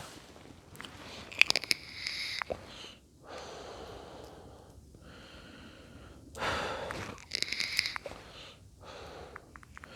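A person's breath: three long breathy puffs a second or so apart, with a few sharp clicks just before the first.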